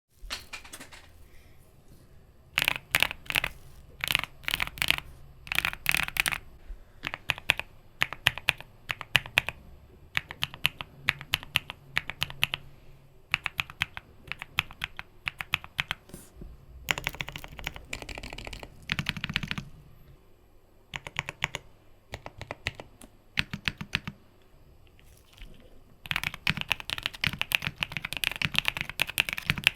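Typing on a Qwertykeys QK65 mechanical keyboard built with its foam layers fitted: irregular runs of fast keystrokes with short pauses and a dense burst near the end, the deep "thoccy" sound the board is known for.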